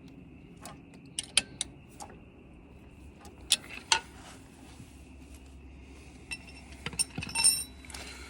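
Metal hand tools clicking and clinking against tractor parts: scattered sharp taps, with one ringing metallic clink near the end.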